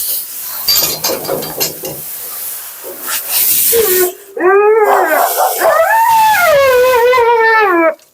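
Siberian husky howling and 'talking': after a hissing spray of water in the first half, two long wavering woo-woo calls that rise and then slide down in pitch.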